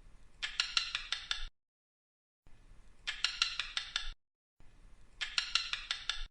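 An animal call played as a looped sound clip: a short run of about five sharp, rapid high notes, repeated three times with dead silence between.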